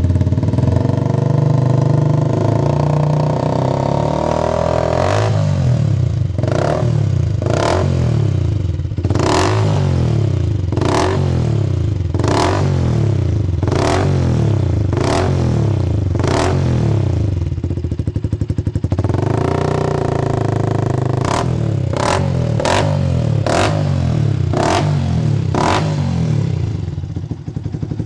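Yamaha YZF-R125's 125 cc single-cylinder four-stroke engine through an aftermarket carbon-fibre exhaust, idling steadily and then blipped again and again. Each quick rise in revs drops back toward idle, with a short steady idle about two-thirds of the way through before another run of quicker blips.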